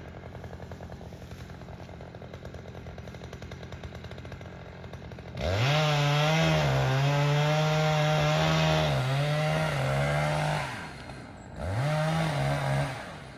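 Two-stroke chainsaw idling, then run up to full throttle about five seconds in for a long cut, its pitch dipping briefly a few times as the chain loads in the wood. It drops back to idle and is run up again for a short burst near the end, making the felling cut on a tree.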